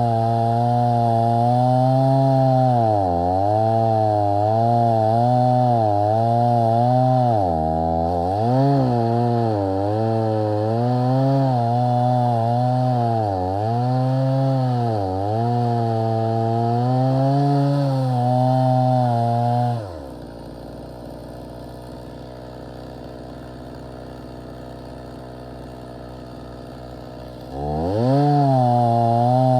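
Stihl MS 290 two-stroke chainsaw with a 20-inch bar and full chisel chain cutting a dry tree trunk, its engine pitch repeatedly dipping and recovering as the chain bites into the wood. About twenty seconds in it drops to a steady idle, then is revved back up to full speed near the end.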